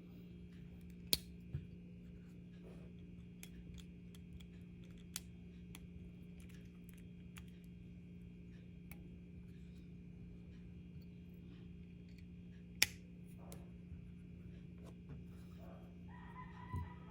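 Steady low electrical hum with scattered light clicks and taps, two of them sharper: one about a second in and one past the middle. A cat meows near the end.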